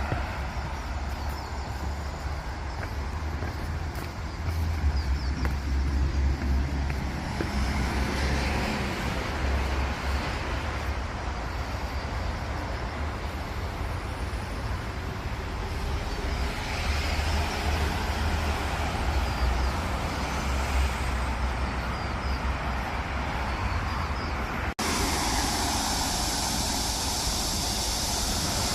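Road traffic noise: a steady rumble of cars and heavier vehicles, swelling as vehicles pass every few seconds. The sound changes abruptly a few seconds before the end.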